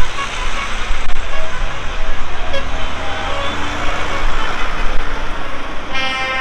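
Tractor engines running as the tractors drive past, with a vehicle horn sounding near the end.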